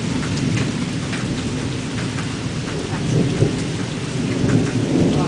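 Thunderstorm: steady heavy rain with a low rumble of thunder that swells about three seconds in and again near the end, and scattered ticks of drops striking nearby surfaces.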